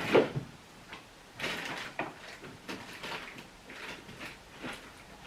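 Things being handled at close range: a few rustling passes and light knocks and clicks, irregular and unhurried.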